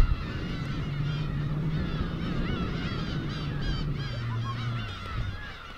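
A large colony of seagulls calling all at once, a dense chorus of many overlapping, repeated cries.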